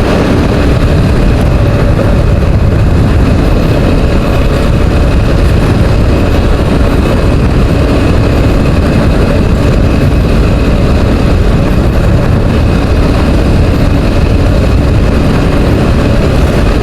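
Steady wind noise rushing over the microphone of a motorcycle riding at speed, with the bike's engine running evenly underneath. It sounds windy because of the speed.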